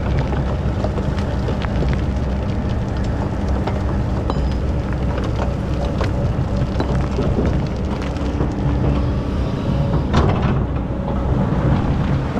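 Excavator's diesel engine running steadily while it digs sand, with scattered knocks and rattles and a louder crash about ten seconds in.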